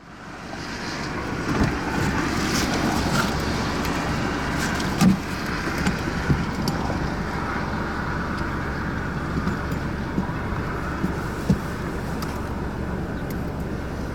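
Car driving: steady road and engine noise, with a few short sharp knocks.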